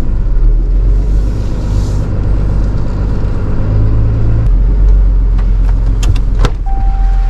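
A motor vehicle's engine running steadily with a deep, low rumble. Near the end come a few sharp clicks and a short steady tone.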